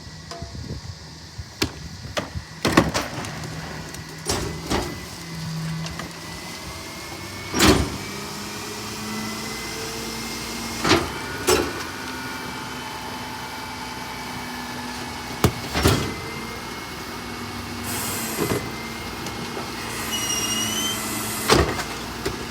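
Rear-loader garbage truck at work: a running engine and steady hum, broken by about ten sharp bangs and knocks spread across the stretch, with a short rising squeal near the end.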